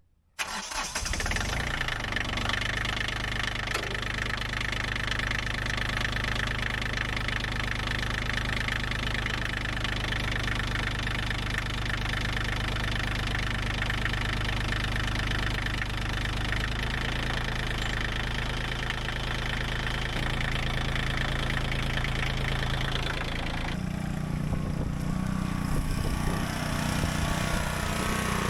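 2009 Bobcat CT122 compact tractor's three-cylinder diesel engine running steadily after a refill of its hydraulic and transmission fluid, while it is watched for leaks. About 24 seconds in the sound changes: the higher part drops away and a lower hum comes forward.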